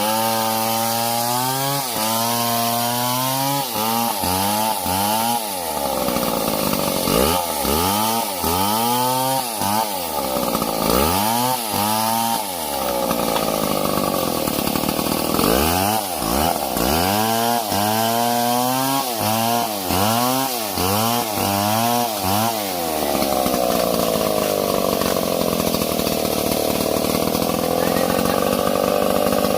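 STIHL MS 070 two-stroke chainsaw cutting into wood, its engine pitch sagging and climbing again and again as the chain bites and frees. For the last third it holds a steadier high pitch.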